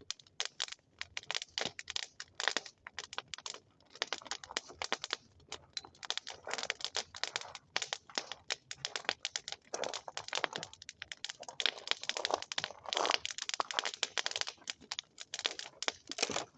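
Wood bonfire crackling, with dense, irregular snaps and pops.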